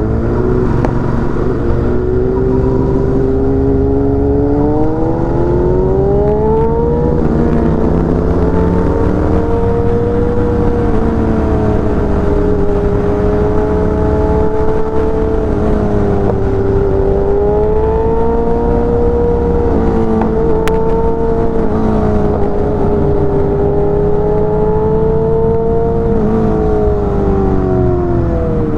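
Royal Enfield Continental GT 650's 648 cc parallel-twin engine running under way. Its note rises through the first several seconds, then holds a fairly steady cruise with a couple of brief dips and recoveries, and falls near the end. A constant low rumble of wind on the microphone sits underneath.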